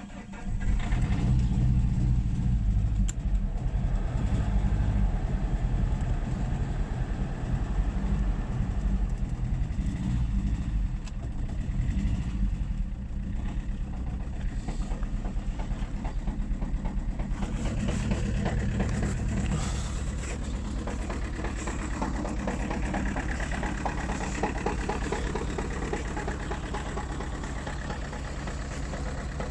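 Saab 9-3's 1.9-litre TID turbodiesel engine running cold at about freezing. It gets sharply louder about half a second in, then runs steadily and eases down a little after about twenty seconds.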